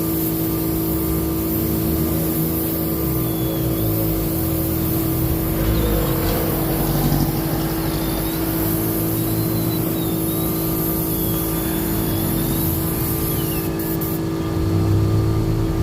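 Steady drone of a running motor, with a constant hum and a low rumble that holds level throughout, and faint short high chirps over it.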